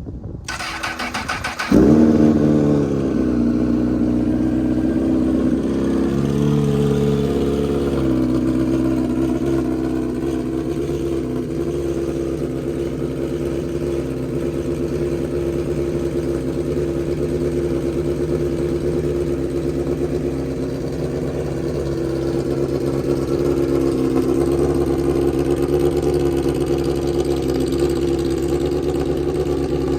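2007 Honda CBR1000RR's inline-four with a straight pipe, cold-started after sitting about three months on old fuel. The starter cranks briefly, the engine catches about two seconds in with a loud burst, then settles into a steady idle.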